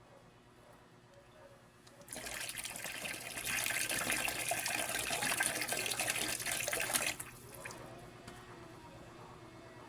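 Water running from a tap for about five seconds. It starts about two seconds in, gets stronger a second later, and stops abruptly.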